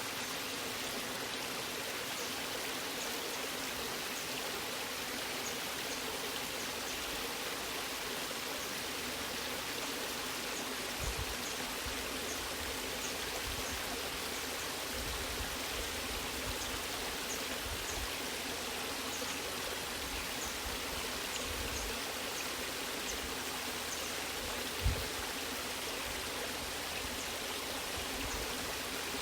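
Natural waterfall: a steady, even rush of falling water, with a couple of soft low thuds, one about eleven seconds in and a slightly stronger one near the end.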